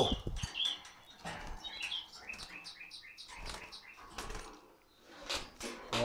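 A small caged bird chirping a few times and fluttering its wings in a wire cage, among light clicks and knocks.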